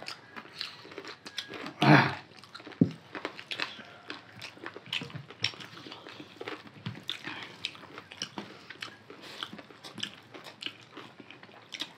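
Two people eating rice and chicken curry by hand close to the microphone: wet chewing and lip smacking with many short clicks, and fingers working rice on steel plates. One louder smack comes about two seconds in, and a short knock follows soon after.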